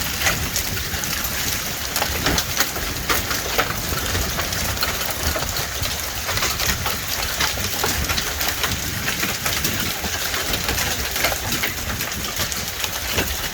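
Hail and rain coming down hard: a steady rain hiss with a dense, irregular patter of small sharp hailstone impacts.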